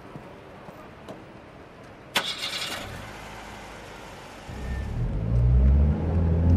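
Car sound effect: a sudden sharp hit about two seconds in, then a car engine starting and running loudly from about four and a half seconds, its low hum growing louder.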